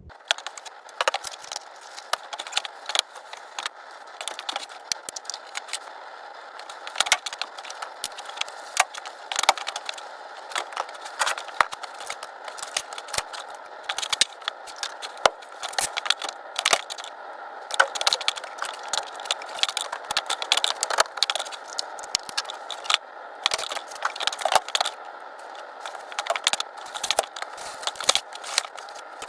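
Rapid, irregular clinks, clatter and rattles of cans, jars and other household items being handled and set down on shelves, over a steady faint hiss.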